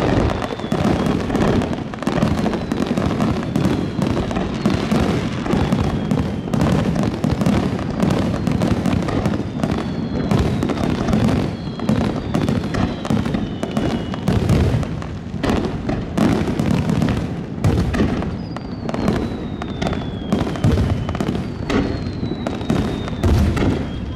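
Fireworks display: a dense, continuous barrage of aerial shell bursts and crackling stars. Several high whistles glide down in pitch through it.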